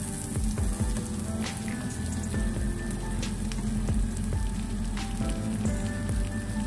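Sliced onion and garlic sizzling steadily in melted butter in a frying pan, with a few light clicks.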